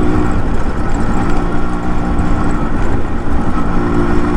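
Yamaha RX 100's two-stroke single-cylinder engine running steadily under way, heard from the rider's seat while cruising at moderate speed.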